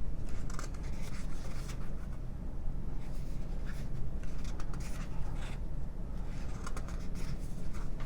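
Thick matte paper pages of a booklet being turned one after another, giving several brief soft swishes and rustles of paper sliding against paper and fingers.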